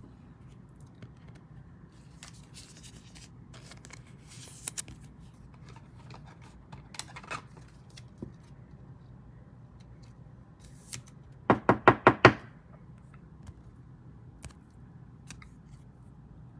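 Trading cards and card packs being handled on a table: scattered light clicks and rustles, with a quick run of about five sharp taps about two-thirds of the way through.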